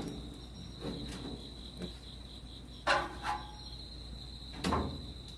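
A steady high-pitched trill runs on, with a sharp knock about a second in, a louder one about three seconds in, and another near the end.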